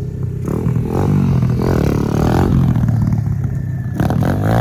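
Pit bike engine revving, its pitch climbing and falling back twice: a rev about half a second in and another about four seconds in, idling low in between.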